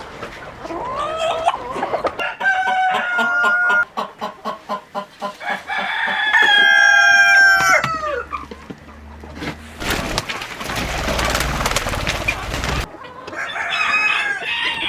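Chickens calling: a rooster crows, with one long call about six seconds in that drops at the end, and hens cluck in quick runs. About ten seconds in there is a three-second burst of rustling noise, followed by another call near the end.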